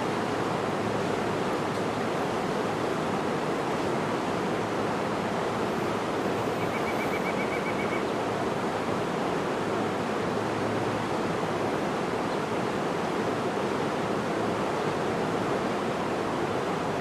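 Steady rushing of a cascading waterfall. About seven seconds in, a bird gives one short, rapid trill of evenly repeated high notes.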